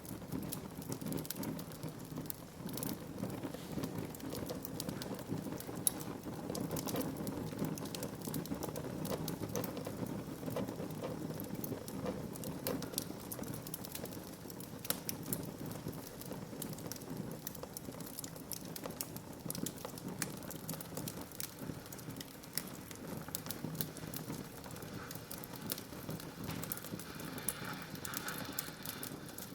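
Wood fire crackling in a fireplace: frequent small sharp pops and snaps over a steady low rush of burning.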